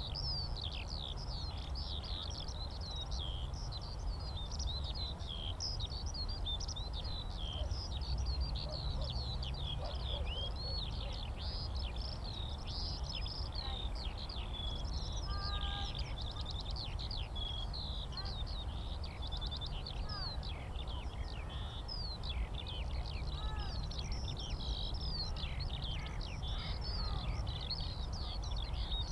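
Skylark song, a fast unbroken stream of high warbling and trilling notes, over a steady low rumble.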